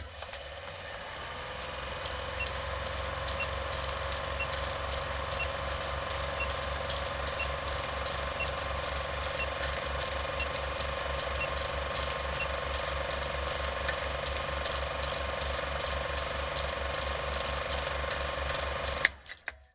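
Bachmann Class 47 model locomotive running, a steady whine with an even, rapid clicking about three times a second that builds up over the first few seconds and cuts off near the end.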